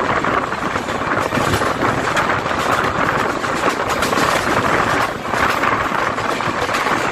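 Express train running at speed: a steady, loud rush of wheel-on-rail noise and air.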